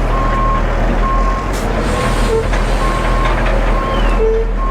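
Reversing alarm of a concrete mixer truck beeping about once a second as it backs up, over the steady hum of the truck's diesel engine.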